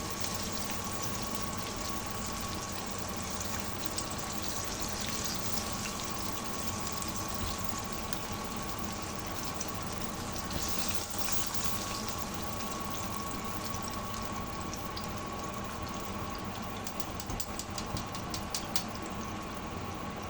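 Flour-coated chicken pieces deep-frying in hot oil: a steady sizzle with scattered crackling pops, which come thicker in the last few seconds.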